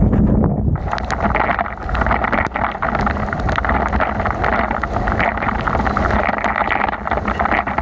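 Wind buffeting the microphone during a bicycle ride in the rain. About a second in, a dense hiss with many small ticks joins it, from rain and wet-road spray.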